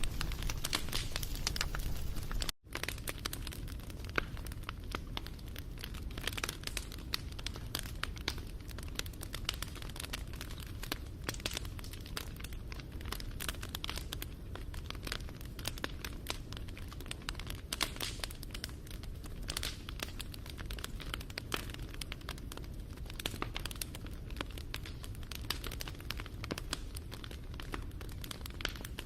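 Wood fire crackling and popping over a low rumble, with dense irregular snaps. The sound cuts out for a moment about two and a half seconds in, then the crackle carries on a little quieter.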